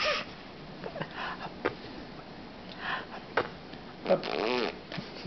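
A ten-month-old baby making playful mouth and breath noises: a few small clicks and a short breathy puff, then a brief pitched vocal sound that rises and falls about four seconds in.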